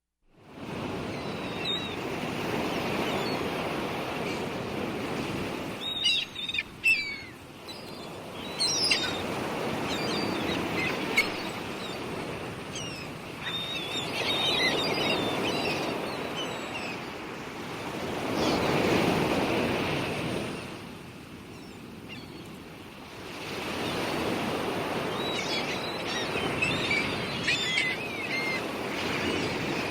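Surf washing in and out, swelling and fading every few seconds, with birds chirping over it in short high calls.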